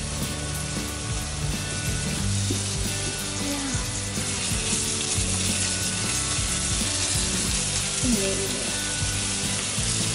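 Minced garlic and ginger sizzling in hot olive oil in a frying pan, stirred with a slotted spatula. The sizzle grows stronger about halfway through.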